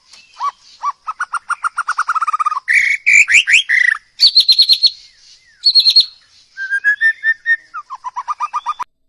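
A songbird singing a loud, varied song: one phrase after another, each a rapid run of repeated whistled notes at a different pitch, some of them sliding. The song cuts off abruptly near the end.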